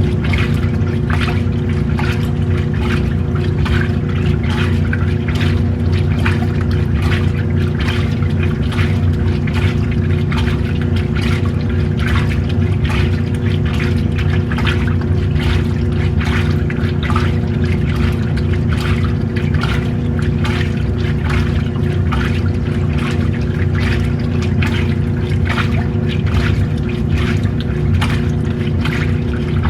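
Washing machine running: a steady motor hum under water sloshing and splashing in the tub.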